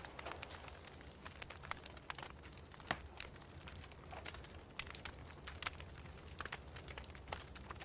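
Wood fire in a fireplace crackling, with irregular sharp pops and snaps several times a second over a steady low hum.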